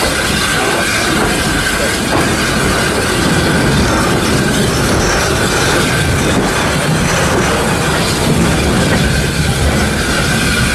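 Steam-hauled heritage passenger train running along, heard from an open carriage window: a steady running noise of the coaches' wheels on the rails, with a steady high ring over it and a few clicks over rail joints.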